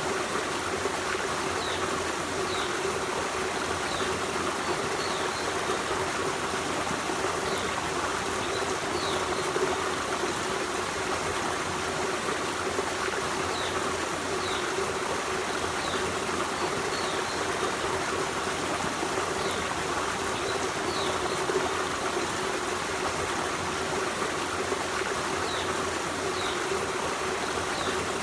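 Forest stream running steadily, a continuous rush of water. Short, faint, high chirps of small birds come every few seconds.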